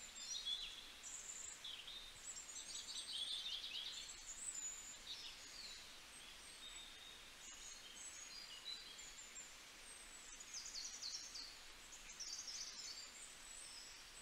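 Faint chorus of small birds: short high chirps and quick trilled calls from several birds, overlapping and coming and going.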